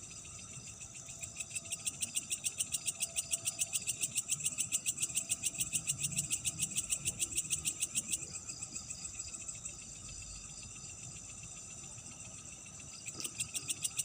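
Night insect chorus, crickets trilling in a steady high drone, with one insect chirping in a fast even rhythm of about seven pulses a second that stops abruptly partway through and starts again near the end.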